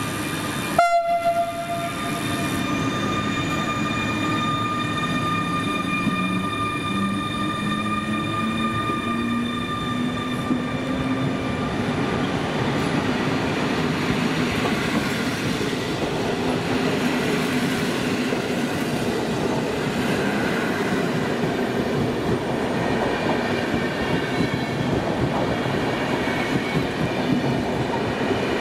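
Passenger train at a station platform: a steady whine of several tones with a low hum rising in pitch for about ten seconds, typical of an electric train gathering speed, then the rumble of the train running past.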